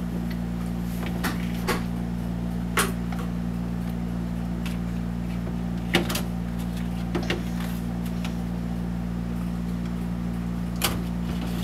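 A steady low hum, with a handful of brief soft clicks and crinkles scattered through it.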